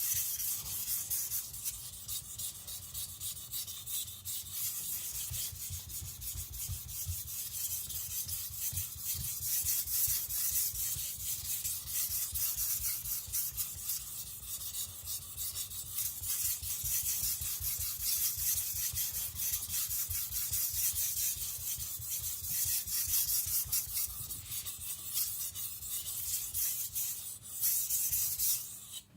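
Tojiro shirogami (white-paper carbon steel) nakiri blade stroked back and forth on a Naniwa Professional water stone: a steady run of rhythmic scraping strokes. The blade is rocked slightly on each pass to blend the bevel shoulders into a convex edge while raising a burr.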